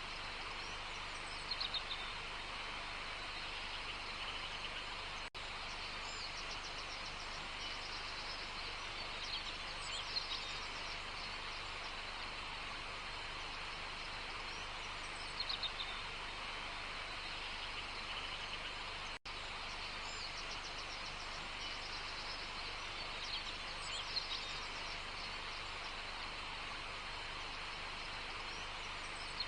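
Outdoor nature ambience: a steady hiss with birds chirping in short bursts of quick notes, four times. The sound cuts out for an instant twice.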